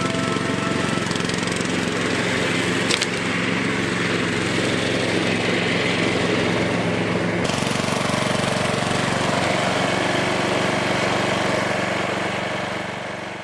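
A small motor running steadily, fading out near the end.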